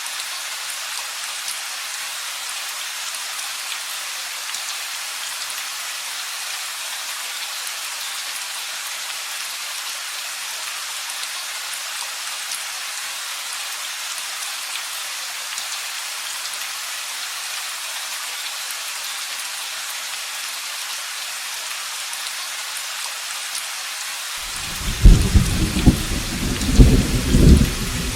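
Steady heavy rain hissing. About 24 seconds in, a loud thunderclap breaks in with sharp cracks and a deep rolling rumble over the rain.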